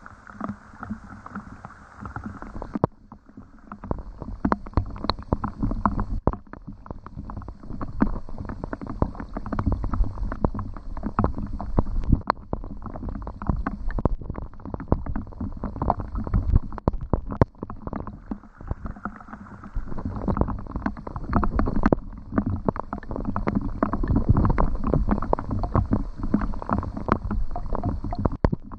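Rain and water splashing and lapping close to the microphone: many irregular drips and knocks over a low rumble. It shifts abruptly a few times in character and loudness.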